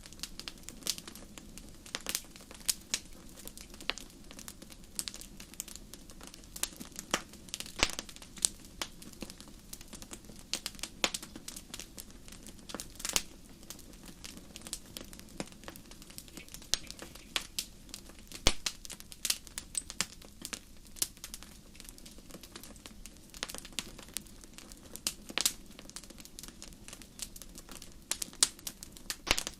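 Wood fire crackling in a fireplace, with irregular sharp pops and snaps over a soft steady hiss; the loudest pop comes about two-thirds of the way through.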